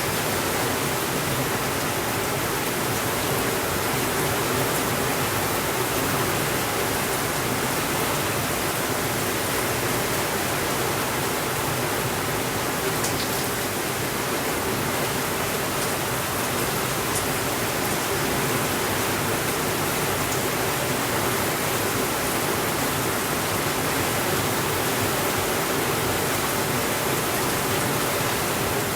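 Steady rainfall, an even unbroken hiss, with a few faint high ticks around the middle.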